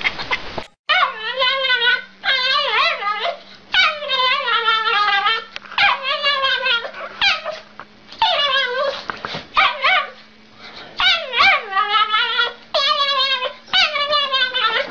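A dog whining and howling in a long series of drawn-out cries whose pitch wavers up and down, with short breaks between them. A faint steady low hum runs underneath.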